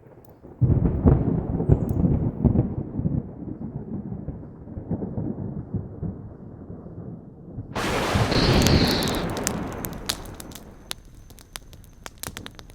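Thunder: a sudden low rumble that rolls on for several seconds and fades, then a sharp, brighter crack of thunder about eight seconds in that dies away, followed by a few scattered clicks.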